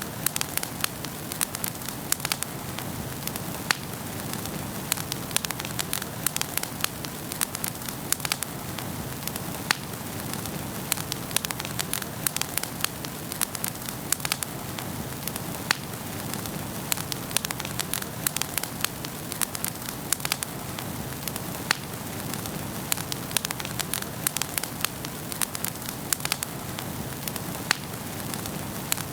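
Wood fire burning in a fireplace: a steady soft rush of flame with frequent sharp, irregular crackles and pops.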